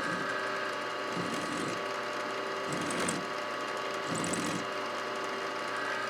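Milling machine running steadily, with short rougher stretches about a second in, around three seconds in and around four seconds in.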